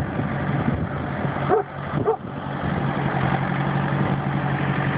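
A tractor engine running steadily, with two short high cries about one and a half and two seconds in.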